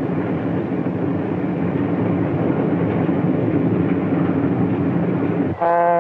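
Steady running noise of a passenger train. About five and a half seconds in it cuts to a train horn sounding one steady chord.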